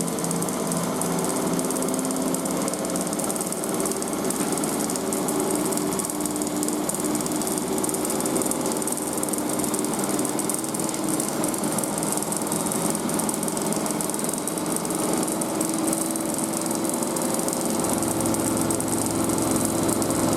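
Front-loading washing machine in its final spin, drum and motor running at high speed and stepping up toward 1400 rpm, with a motor whine that climbs slowly in pitch over a steady rushing hiss. A low rumble from the cabinet joins in near the end.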